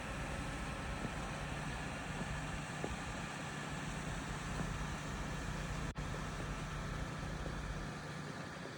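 Heavy truck running steadily: a low engine drone under a constant haze of road and wind noise, with a momentary dropout about six seconds in.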